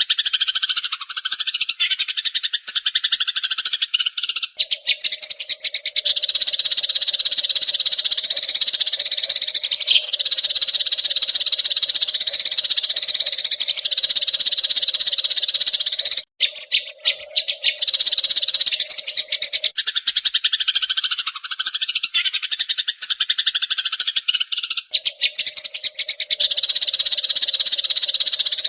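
Eurasian tree sparrows chattering: a dense, continuous stream of rapid high chirps, as from several birds at once, breaking off briefly about halfway through.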